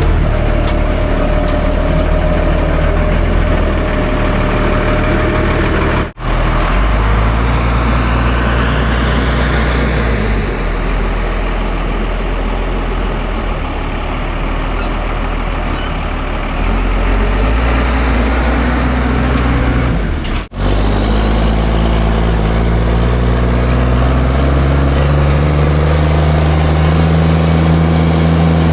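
Mack diesel dump truck pulling a loaded trailer, its engine working up through the gears: the sound drops out briefly twice, about six seconds in and about twenty seconds in, as it shifts, and the engine pitch climbs again after each shift.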